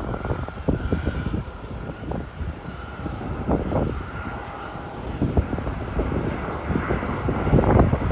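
Jet engines of a Qantas Boeing 737 landing, a steady rushing roar with a faint whine, broken by irregular gusts of wind on the microphone.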